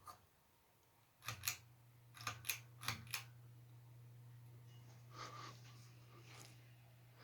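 1991 SMC U42 ceiling fan: a run of about six sharp clicks over two seconds, and with the first click a steady, faint low motor hum sets in.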